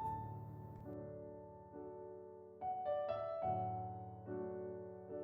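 Soft, slow background piano music: sustained chords and single notes struck every second or so, each left to fade.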